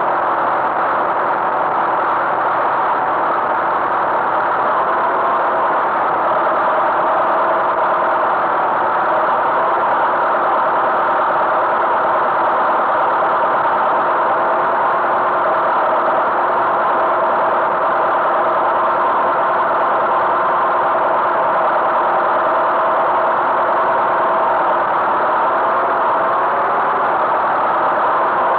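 Tractor engine running steadily at an even speed, with no change in revs.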